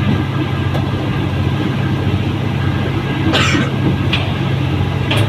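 Diesel passenger train running, heard from an open carriage doorway: a steady low engine drone under track and wind noise, with a short burst of noise about three and a half seconds in.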